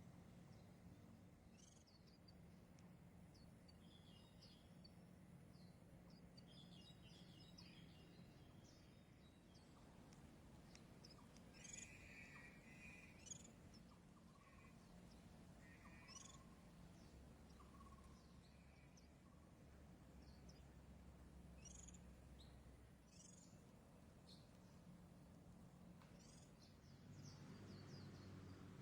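Faint, scattered high-pitched chirps and twitters of white-eye birds, with a few lower, longer notes around the middle, over a steady low hum.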